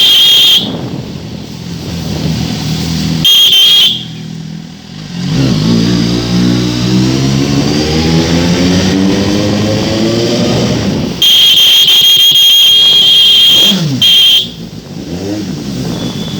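Suzuki GSX-S750's inline-four engine running loud through its exhaust: several very loud blasts, and in the middle a stretch where the engine pitch climbs steadily as it revs up.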